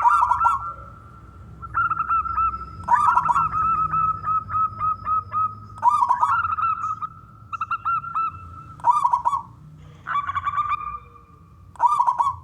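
Male zebra dove (perkutut) singing: repeated phrases of quick, short cooing notes, with a louder phrase about every three seconds and softer runs of notes in between.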